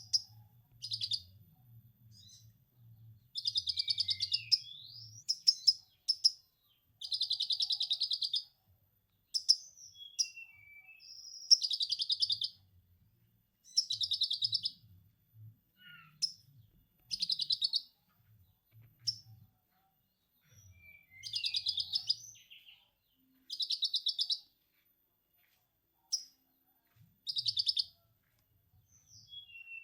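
Konin songbird singing lovebird-style 'ngekek' chatter: repeated bursts of fast, high trilling chatter about a second long, with short slurred whistles between them.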